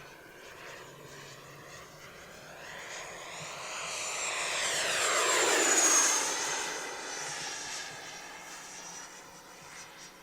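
Single 70mm electric ducted fan of an FMS F-18F RC jet, whining through a fast fly-past. It swells to its loudest about six seconds in, the whine dropping in pitch as it goes by, then fades.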